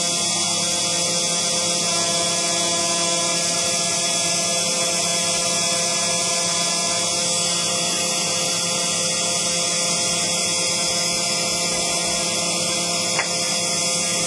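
CNC engraving machine running steadily, its spindle and stepper motors giving a constant whine of several fixed tones over a hiss, with a short click about 13 seconds in.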